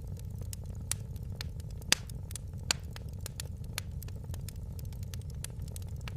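Wood fire in a fireplace crackling: a steady low rumble of the flames with frequent irregular sharp pops, the loudest about two seconds in.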